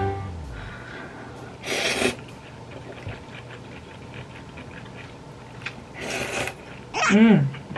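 Handling noises of takeout food containers being set out: two short plastic rustles and scattered light clicks, then near the end a short pitched sound that swoops up and down.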